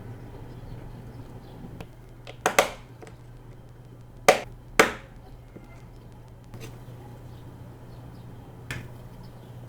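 Sharp clicks and taps from handling bead packaging. There is a quick double click about two and a half seconds in, two more half a second apart a little after four seconds, and a fainter one near the end, over a low steady hum.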